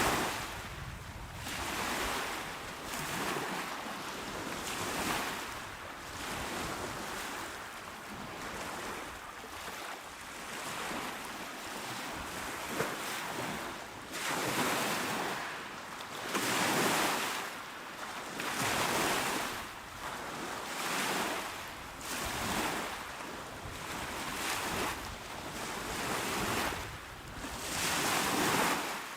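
Small waves washing onto a shore, each swell of surf rising and falling away every couple of seconds, with somewhat stronger washes in the second half.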